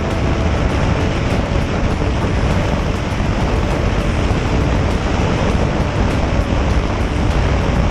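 Steady wind rush and low road rumble on the microphone of a moving motorcycle, with no breaks or sudden events.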